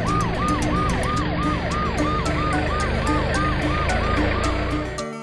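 Ambulance siren wailing in fast repeated falling sweeps, about two and a half a second, cutting off just before the end.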